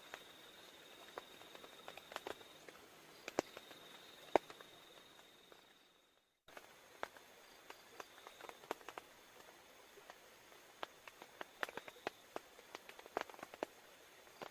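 Faint, irregular light taps and clicks over a steady, thin high-pitched tone. The sound fades out about six seconds in and comes back abruptly a moment later.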